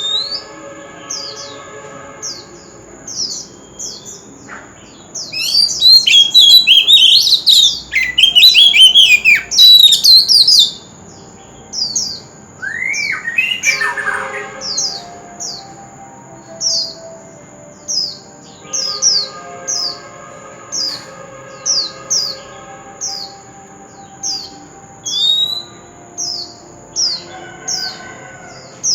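Oriental magpie-robin singing: a loud burst of rich, varied whistled phrases for about five seconds, then short high descending notes repeated about once a second. A steady thin high tone runs underneath throughout.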